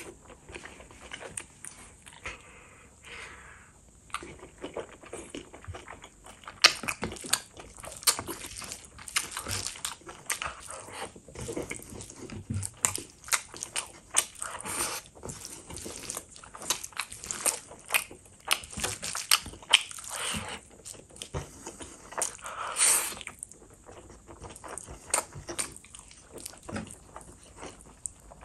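Close-miked chewing of gravy-soaked rice and mutton: wet mouth sounds, lip smacks and many quick sharp clicks, going on without a break.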